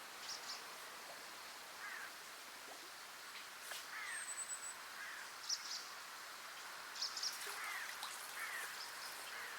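Quiet outdoor ambience with scattered short bird calls: brief chirps and quick falling notes, and one thin high whistle about four seconds in.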